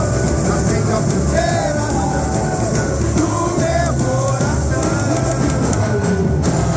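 Live samba-enredo music: a sung melody over band accompaniment, played continuously at a steady level.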